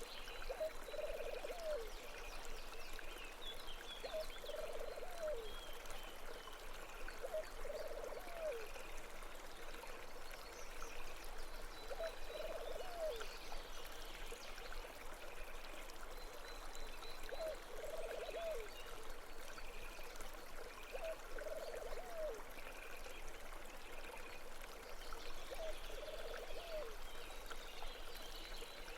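Steady running water of a stream, with doves cooing every few seconds in low repeated calls and faint small-bird chirps above.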